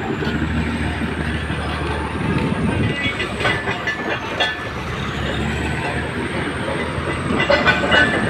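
Bulldozer's diesel engine running steadily while its steel crawler tracks clank and squeal, a few seconds in and again near the end.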